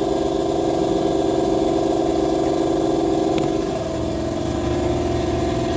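A machine motor running steadily with a fine, even rattle. Its tone shifts slightly about two-thirds of the way through.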